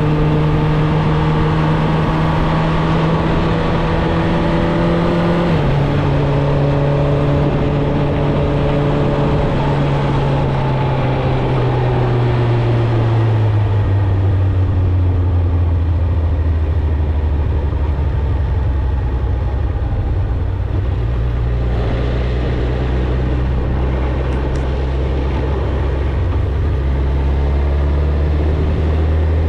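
Suzuki GSX-R1000 inline-four engine and exhaust under way at a steady pace, its note sinking gradually in the middle as the bike slows, then holding a lower, steady note.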